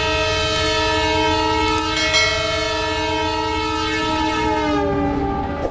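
Train horn sounding one long blast, a chord of several steady notes over a low rumble. Its pitch sags slightly near the end before it cuts off.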